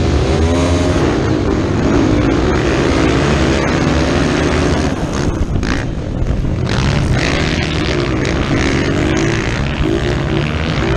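Motocross motorcycle engines revving up and down through the gears under race load.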